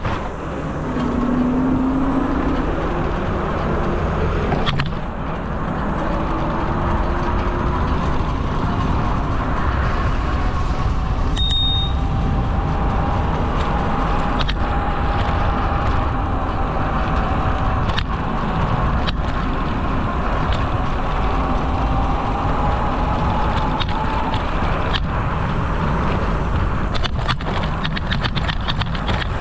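Steady wind rush and tyre rumble from riding a bicycle along a paved trail, with scattered knocks from bumps and a brief high ping about eleven seconds in.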